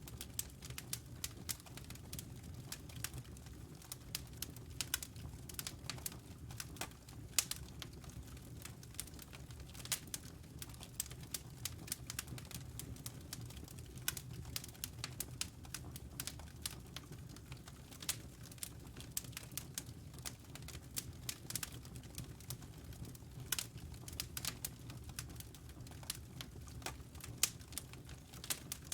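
Wood fire crackling: burning logs giving off irregular sharp pops and snaps over a steady low rumble.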